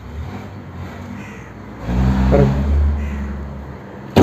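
Vehicle engine running, rising in level and revving from about two seconds in, then easing off, during work to press a tubeless tyre's bead loose from the rim. A sudden loud knock comes at the very end.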